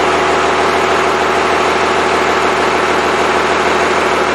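Freshly rebuilt Cummins 5.9L 12-valve inline-six diesel engine running steadily at idle.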